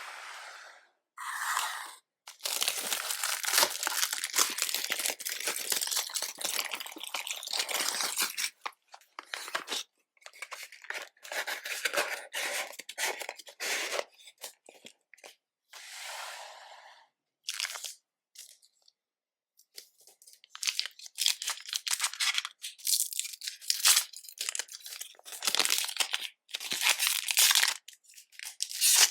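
Plastic wrapping on a trading-card booster box being torn and crinkled as the box is unwrapped and opened. The packaging is handled in crackly bursts: one long stretch early, then shorter runs with brief pauses.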